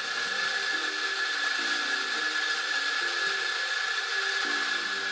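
Electric espresso grinder running steadily as it grinds coffee, a dense grinding noise with a constant high-pitched motor whine.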